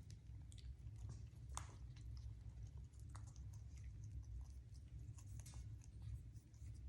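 African grey parrot working at food with its beak: faint, irregular small clicks and crunches.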